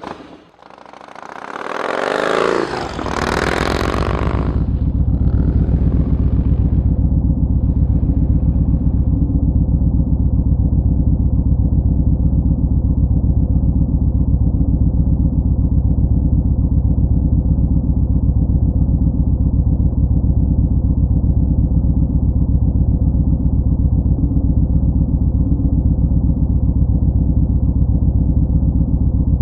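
Motorcycle engine running at a steady cruise, heard from on board as a constant low drone, after a loud rushing sweep during the first four seconds.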